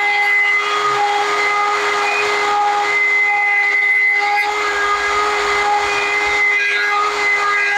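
Hand-held rotary carving tool with a small bit running at high speed, grinding detail into wood: a steady whine with a hiss over it, and higher tones that come and go as the bit meets the wood.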